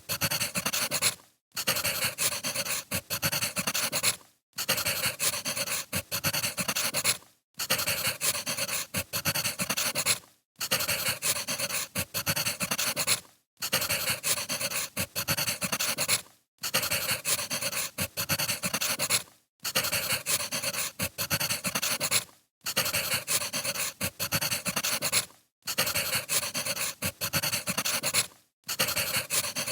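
Wood fire crackling and popping in a dense run of small snaps, broken by a short silence about every three seconds as a short recording repeats.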